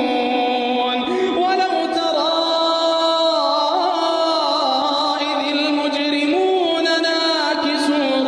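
A solo voice chanting in a Middle Eastern style, long held notes sliding and ornamented in pitch, with no beat or instruments.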